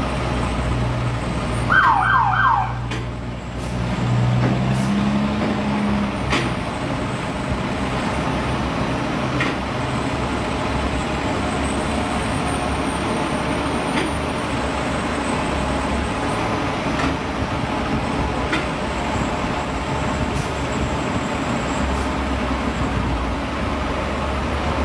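An emergency vehicle's siren gives three quick falling chirps about two seconds in, over the steady low hum of heavy truck engines running and street traffic. A few faint clicks and knocks come later.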